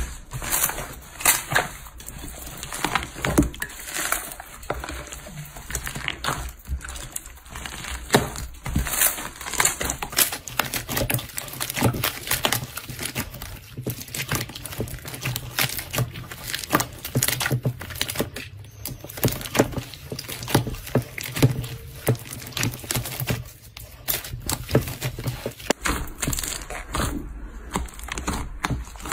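Slime being squeezed and pressed by hand, with dense, irregular crackling and popping clicks.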